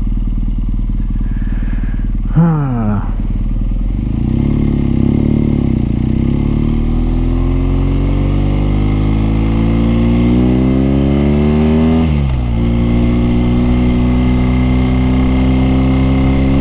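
BMW R NineT's 1170 cc boxer-twin engine under way. The revs drop sharply about two and a half seconds in, waver, then climb steadily for several seconds as the bike accelerates. They fall abruptly at an upshift about twelve seconds in and rise slowly again.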